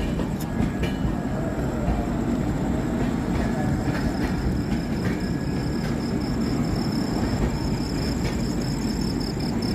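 Humsafar Express passenger coach running along the track, heard from inside: a steady low rumble with a few faint clicks, and a thin high whine that grows clearer in the second half.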